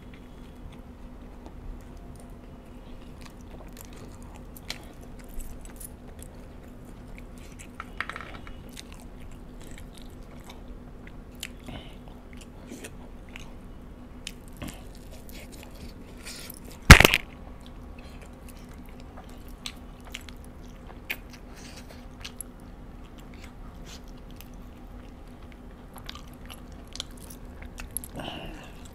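A person eating close to the microphone, biting and chewing a soft bread bun and saucy chicken wings: small mouth clicks and smacks scattered throughout over a faint steady hum. One sharp, much louder click comes about seventeen seconds in.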